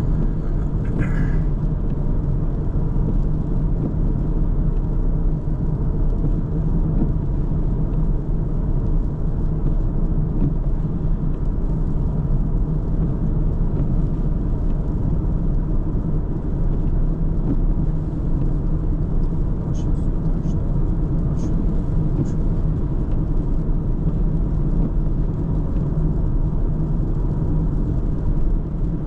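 Car driving steadily on the road: a constant low rumble of engine and tyre noise, with a few faint ticks about two-thirds of the way through.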